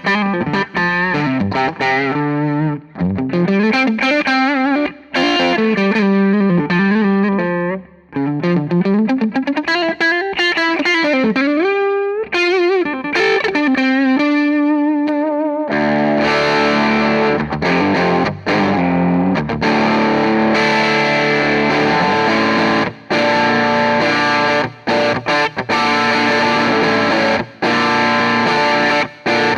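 Electric guitar on its neck pickup through an EarthQuaker Devices White Light overdrive pedal, comp switch in the minus position with the gain turned up, into a tube amp. It plays single-note lead lines with wide string bends, then from about halfway through dense distorted chords and riffing.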